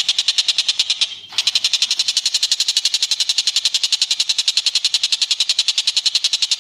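Bird call recording: a fast, even trill of about a dozen high-pitched pulses a second, broken once briefly about a second in and then running on unchanged.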